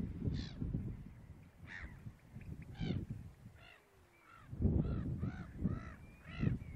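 Birds calling: a few single calls, then a quick run of about eight repeated calls in the second half, over gusts of wind rumbling on the microphone.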